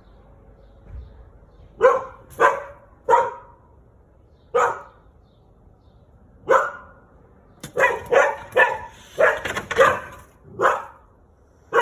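A dog barking in short, loud single barks, spaced a second or two apart at first, then coming faster in a run from about eight seconds in.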